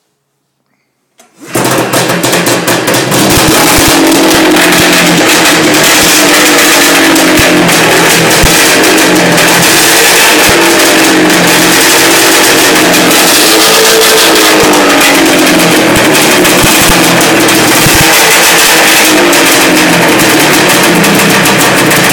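Arctic Cat Thundercat 900 snowmobile's two-stroke triple engine firing on a cold start about a second in, then running loud and uneven, its pitch wavering up and down.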